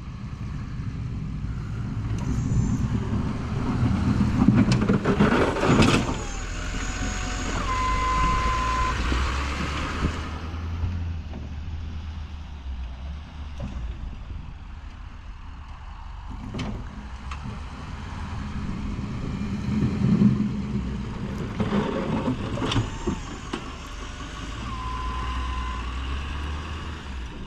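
Snowplow pickup truck working: the engine runs steadily under load while the plow blade scrapes and pushes snow in two long swells. A steady electronic beep sounds for about a second twice, once early on and again near the end.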